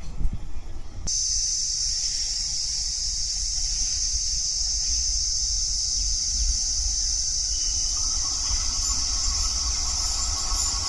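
Steady, high-pitched insect chorus that cuts in suddenly about a second in, over a low rumble. Just before it, the last of a passing train's noise.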